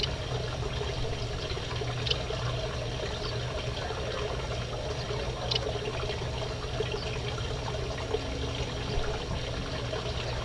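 Aviary finches and a canary giving a few short, high chirps a few seconds apart, over a steady trickling noise.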